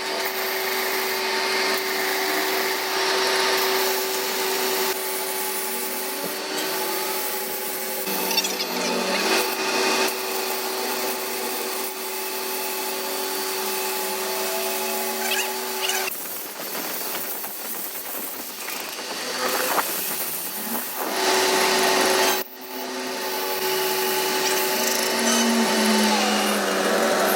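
A power tool running steadily with a constant hum over rough scraping noise. It stops about two-thirds of the way through and starts again a few seconds later.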